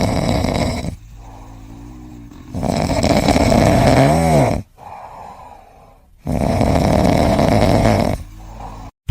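A sleeping pet snoring loudly: three long snores about three seconds apart, with quieter, slightly whistling breaths between them.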